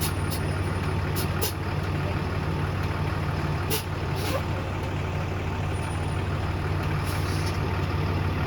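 Heavy diesel fire truck engine idling steadily, with a few brief high hisses or clicks over it and a slightly longer hiss near the end.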